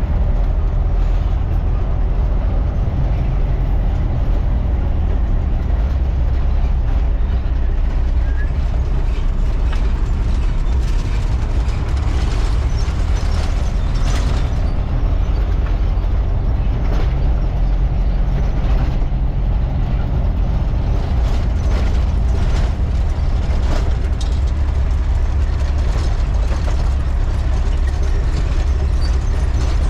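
Truck under way: a steady, heavy low engine and road rumble with scattered short knocks and rattles.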